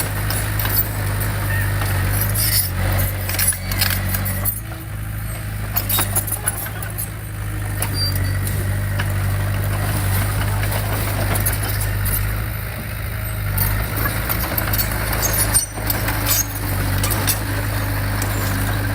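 Diesel engine of heavy earthmoving equipment running steadily, with scattered metallic clanks and knocks.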